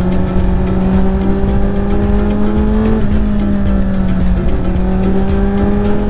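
2021 Honda CBR1000RR's inline-four engine running under way at a steady road speed, over low wind rush. Its pitch creeps up, drops about three seconds in, dips once more a little after four seconds, then holds steady.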